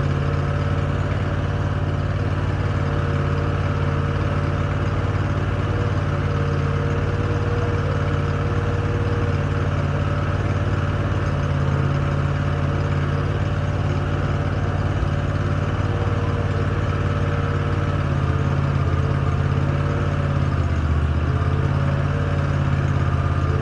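An engine idling steadily with an even low hum, its pitch wavering slightly near the end.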